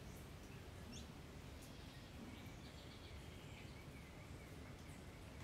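Quiet outdoor ambience with faint bird calls: two short rising chirps about half a second and a second in, then a thin, soft high trill in the middle.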